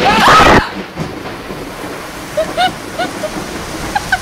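A sudden, very loud crack of thunder from a close lightning strike, with a person screaming, cut off within about half a second. Steady heavy rain follows.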